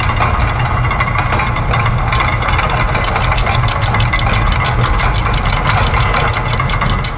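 Layered factory machine sounds: a steady low mechanical rumble under rapid, even ticking and clicking of gears and ratchets, several clicks a second. Near the end the low rumble drops away and the clicking carries on.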